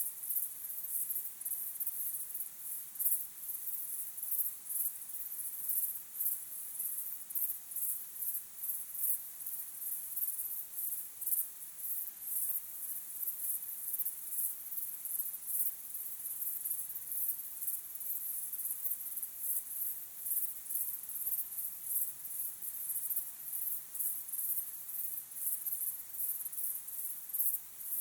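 Crickets chirping in a dense chorus, a constant high-pitched pulsing trill.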